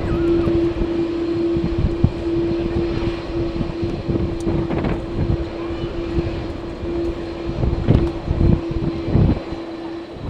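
Airliner engine noise with a steady droning tone, under strong wind gusting and buffeting the microphone.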